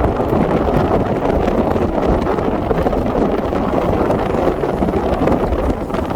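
Wind buffeting the microphone: a loud, steady rumbling rush with no voices, easing slightly right at the end.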